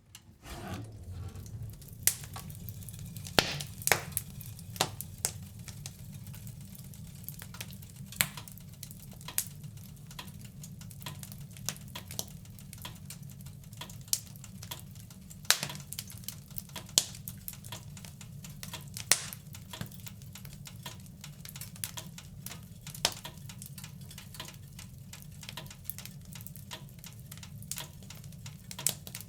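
Wood fire in a fireplace crackling, with irregular sharp pops every second or so over a low, steady rumble of the flames. It fades in at the very start.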